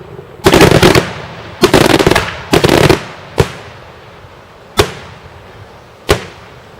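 Daytime fireworks going off loudly: three quick runs of rapid crackling reports in the first three seconds, then single sharp bangs about every second and a half.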